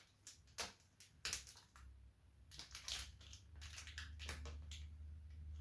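Vinyl wrap film crinkling and crackling as it is handled, in irregular sharp crackles with short gaps, over a faint low hum.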